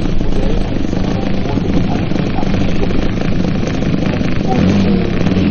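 Propeller engine of an RC Extra 330 SC aerobatic model plane running steadily, its pitch rising a little near the end.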